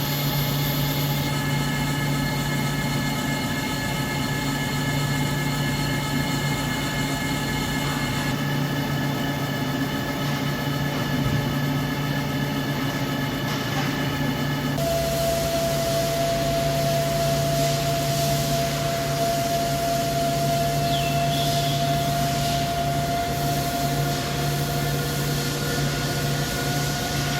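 CNC lathe running while turning a spur pinion shaft: a steady machine hum with several whining tones that shift abruptly a few times. About halfway through, a new higher whine comes in and slowly rises.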